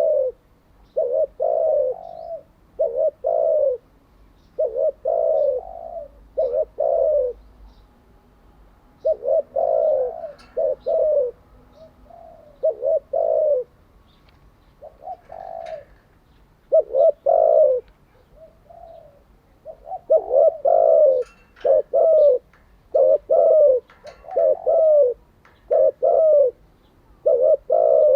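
Spotted dove cooing: short runs of low coos, repeated again and again with pauses of about a second or two between them.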